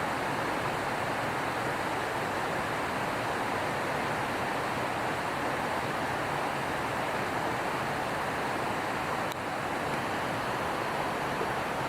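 Steady rush of a waterfall's falling water, even and unbroken throughout.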